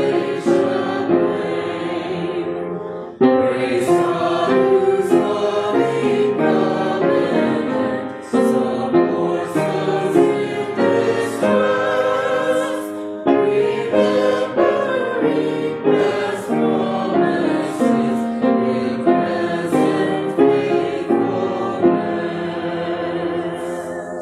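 Congregation singing a hymn together, many voices holding each note of a slow melody.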